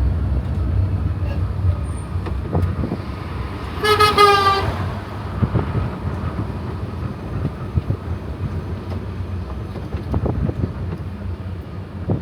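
A horn toots once for about a second, about four seconds in, over the steady low rumble of the tourist road train's engine and road noise as it drives along.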